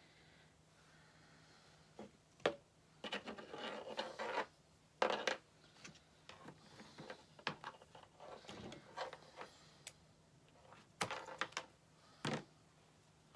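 Hands handling craft materials on a work table: a scattered run of clicks, taps and rustling scrapes, starting about two seconds in, with the loudest handling noises near the middle and near the end.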